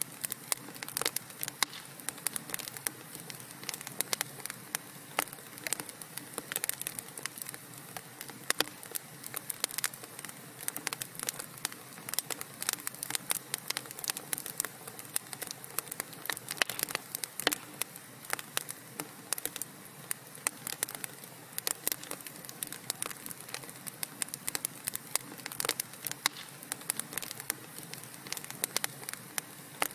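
Wood fire burning in a fireplace: a dense, irregular crackle of small pops and snaps over a soft steady hiss.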